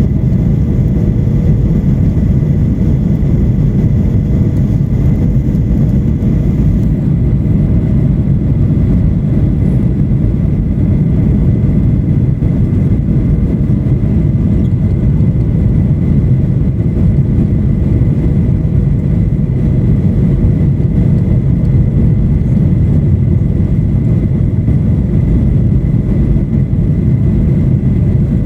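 Steady drone of a Boeing 737-800's engines and airflow heard inside the passenger cabin, a deep even rumble with a faint constant high whine over it.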